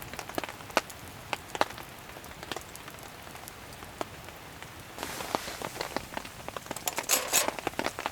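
Rain falling, with scattered single drops striking a surface as sharp ticks over a steady hiss. About five seconds in the hiss gets louder, and a dense cluster of drops comes a couple of seconds later.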